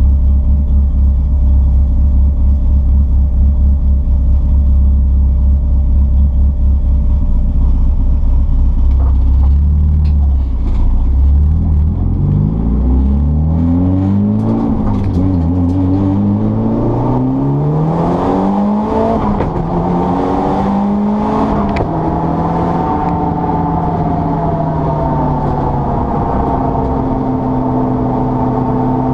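Mitsubishi Lancer Evo 6 Tommi Mäkinen Edition race car's turbocharged four-cylinder engine running with a deep, uneven low note for about twelve seconds, then accelerating through several gears, its pitch climbing and falling back at each shift, before settling into a steadier drone.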